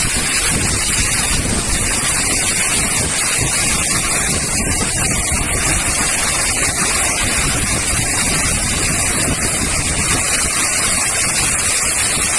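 Loud, steady rush of water in a torrential, flooding downpour, unbroken throughout.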